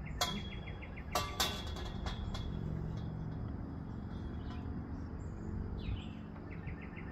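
Birds chirping, with a fast trill of short, evenly spaced high notes at the start and again near the end, over a low steady hum.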